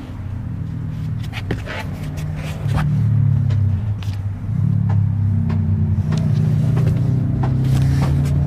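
6.7-liter Power Stroke V8 turbo diesel of a Ford F-350 Super Duty running with a steady low rumble that gets louder about three seconds in. Scattered clicks and knocks sound over it.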